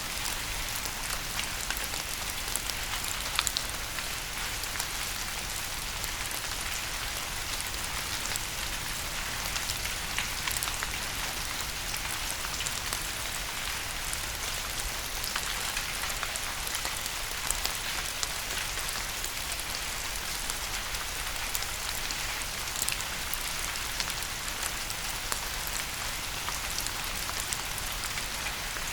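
Steady rain falling on a surface, with individual drops pattering sharply now and then over a constant hiss.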